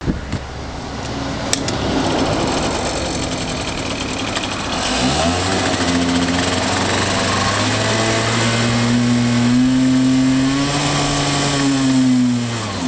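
Honda Gyro Canopy scooter's 49 cc two-stroke engine running just after start-up, idling at first, then revved up about five seconds in and held at higher revs before dropping back near the end.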